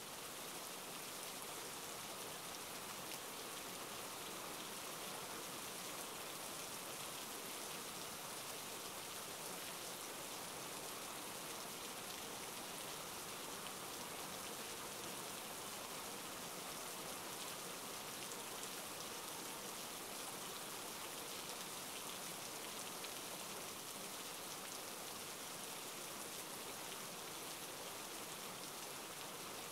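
Steady rainfall: an even hiss of rain that holds at the same level throughout.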